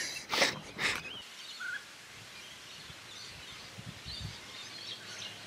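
Outdoor ambience with a few short bird chirps, and two brief rushes of noise within the first second.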